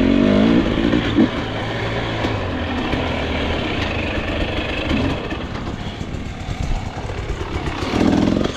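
Dirt bike engine running along a trail, with throttle blips that raise the pitch near the start and again near the end.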